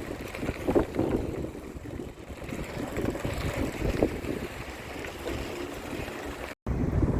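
Wind buffeting the microphone during a bicycle ride: an uneven low rumble that swells and fades in gusts. It cuts out to silence for a moment near the end.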